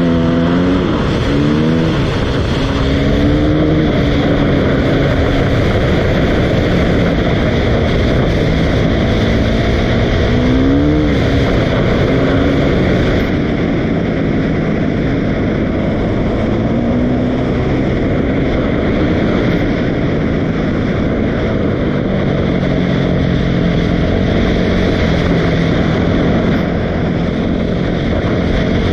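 Dirt bike engine running continuously, its pitch rising and falling with the throttle, with a quick rev-up about eleven seconds in.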